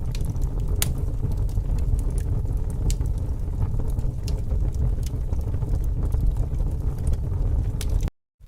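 Wood fire crackling: a steady low rumble of flames with scattered sharp pops, cutting off suddenly near the end.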